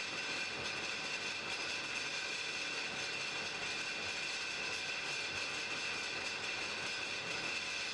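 Blacksmith's forge fire burning: a steady rushing hiss with a faint steady high tone running through it, and no hammer blows.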